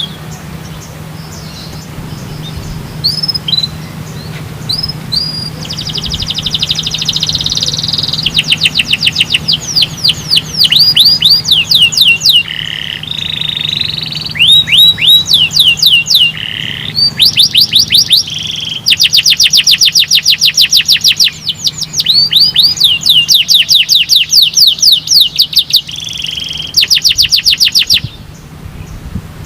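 Domestic canary singing a long, loud song: phrase after phrase of rapid trills made of quickly repeated upswept whistled notes, with short breaks between phrases. A low steady hum sits underneath.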